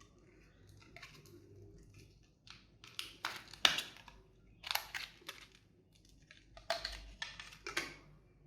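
Retail packaging being handled: a series of short rustles, crinkles and clicks of cardboard and plastic, loudest a few seconds in and again near the end.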